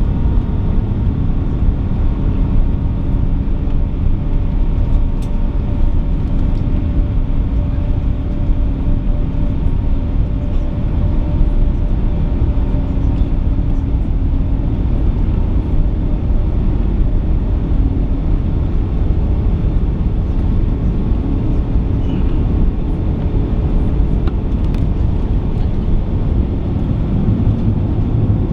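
Steady low rumble of an Airbus A380 heard from inside the passenger cabin, with a few faint steady hums over it and no change in level.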